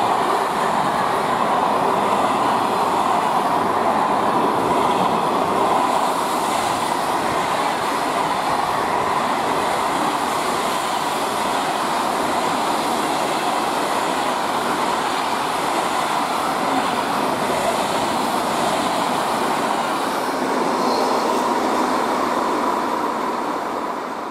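Freight train wagons (container flats, then covered hopper wagons) rolling past at speed: a steady rumble and rattle of wheels on rail with a thin whine held through it. It falls away near the end as the last wagon passes.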